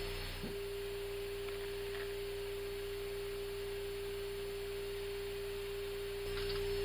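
A steady, even hum at one pitch in the cockpit audio of an Airbus A319 parked with both engines shut down, over a faint hiss of air. This is typical of the aircraft's 400 Hz AC electrical supply. The hiss grows slightly louder near the end.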